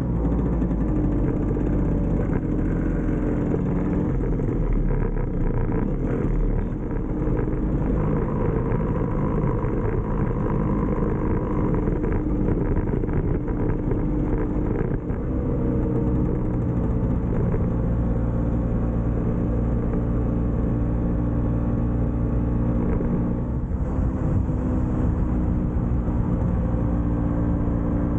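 Vespa PX scooter's single-cylinder two-stroke engine running under way, a steady note that shifts in pitch a few times with throttle and gear changes.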